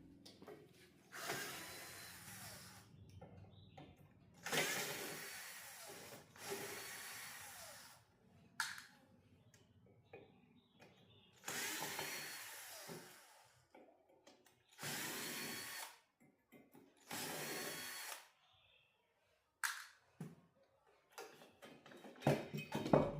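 A small handheld power tool running in short bursts of one to two seconds, about six times, with a few brief blips between; a clatter of knocks near the end.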